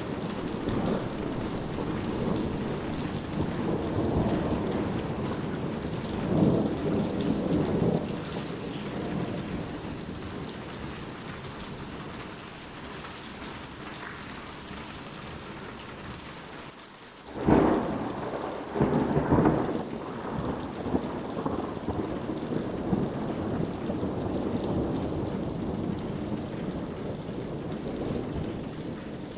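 Steady rain with rolling thunder: low rumbles swell and fade, with the loudest thunder breaking suddenly a little past halfway and again about two seconds later.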